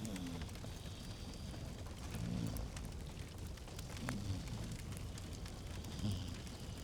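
Log fire crackling in a fireplace: scattered sharp pops and snaps over a steady low rumble that swells about every two seconds.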